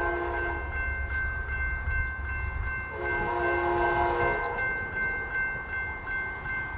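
An approaching train's air horn sounding a chord of several notes in two blasts, the first ending about half a second in and a longer one from about three to four and a half seconds, over a low rumble.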